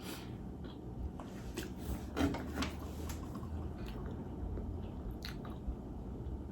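Close-miked eating: mouth chewing with several crisp crunchy bites, a cluster about one and a half to two and a half seconds in and another near five seconds.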